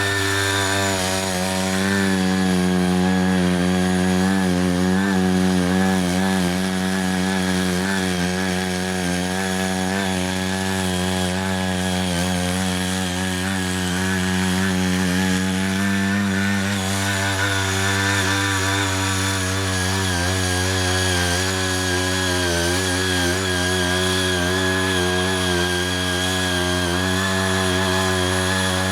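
Small engine of a Ching Yee CY80 walk-behind power tiller running steadily under load while its wide rotary blade rotor churns and loosens soil.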